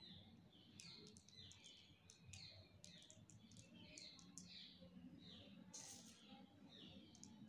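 Near silence, with faint bird chirps repeating irregularly in the background.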